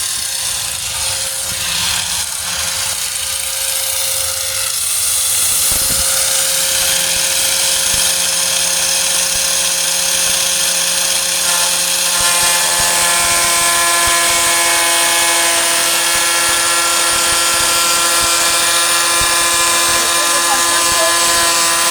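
Angle grinder running on the tailgate's sheet steel with a steady whine and hiss; about twelve seconds in the pitch pattern shifts and gains more overtones, as the load on the disc changes.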